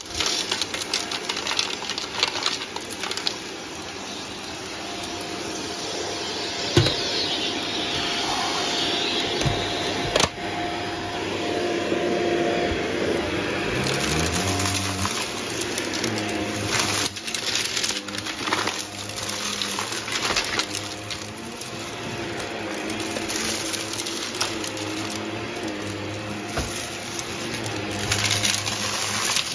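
Vacuum cleaner running steadily while it picks up a dry mess test mix, with debris clicking and rattling as it is sucked up. About halfway through, the low motor note shifts in pitch.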